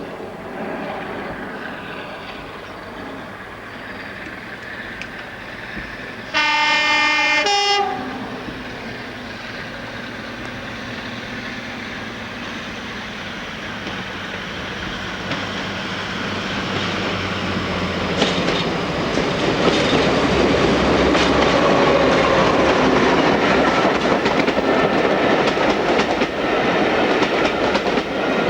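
Diesel locomotive horn sounding one blast of about a second and a half that drops to a lower note at its end, over a diesel engine running. Then a diesel train draws near and passes close, its wheels clicking over the rail joints.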